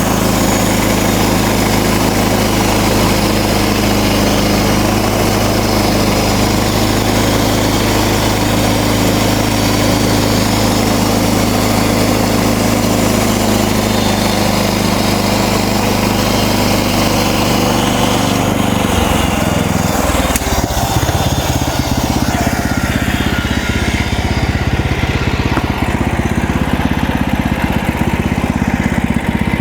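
MechMaxx band sawmill's gas engine running steadily under load as the band blade cuts through a cedar log, with a hiss from the cut over the engine note. About two-thirds of the way through the engine note changes, and the hiss dies down near the end.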